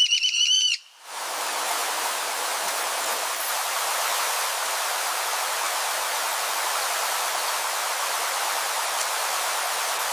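A high whistled call, rising slightly in pitch, for under a second, cut off abruptly; then a steady, even rushing hiss.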